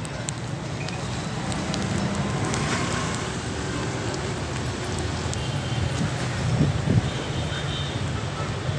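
4400 cc V8 engine in a 1984 Toyota Hilux running steadily at idle, with a low, even exhaust rumble.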